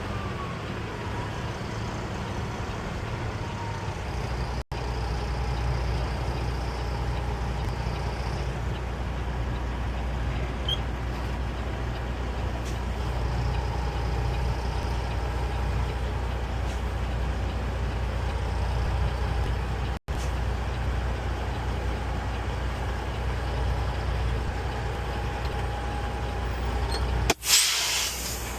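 Peterbilt 389 semi truck's diesel engine running steadily at low speed. Near the end comes a loud hiss of air lasting about a second, typical of the air parking brake being set.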